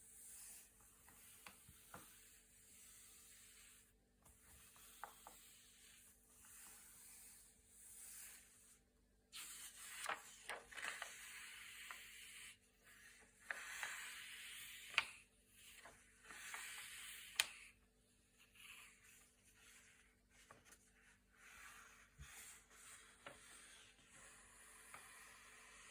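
Thick, glossy paper pages being turned, a series of soft rustling swishes with a few crisp snaps as pages flip over, busiest in the middle.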